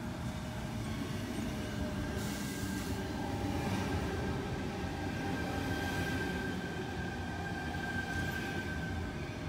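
Double-deck electric suburban train running in along the platform with a steady rumble and a high whine. A short hiss comes about two seconds in.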